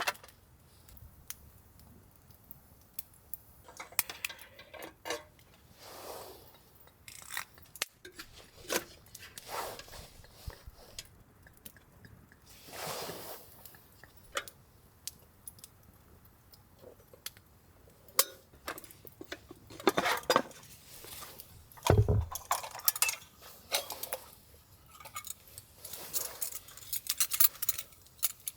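Cookware and utensils being handled during camp cooking preparation: scattered clinks and knocks of pots, lids and cutlery, with short scraping and rustling sounds in between. One heavier knock about three-quarters of the way through.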